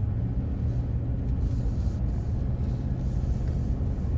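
Steady low drone of a car's engine and tyres heard from inside the cabin while driving uphill, with a hiss that swells twice.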